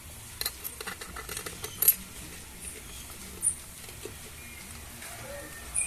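Small metal clicks and clinks of bolts being handled and set into a motorcycle engine cover by hand, with a sharper clink about two seconds in.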